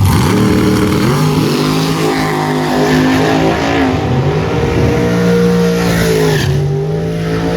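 Drag racing car's engine launching and running hard down the strip, its pitch climbing from low right after the start and dipping briefly twice as it shifts gears.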